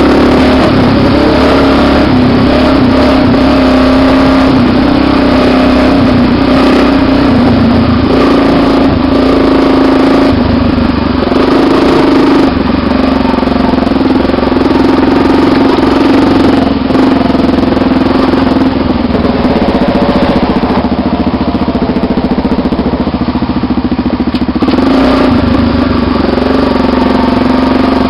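Honda XR250 Tornado motorcycles' single-cylinder four-stroke engines running loudly and steadily, with small rises and dips in engine speed.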